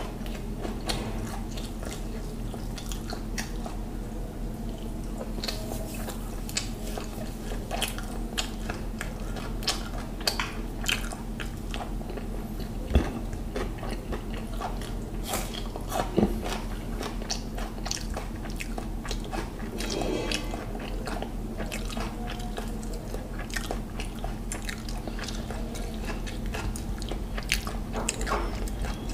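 Close-up chewing and biting of mutton biryani eaten by hand, with wet mouth sounds and many small sharp crunches and clicks. The two loudest crunches come a little before and a little after the midpoint, while a raw red onion slice is being bitten. A low, steady hum runs underneath.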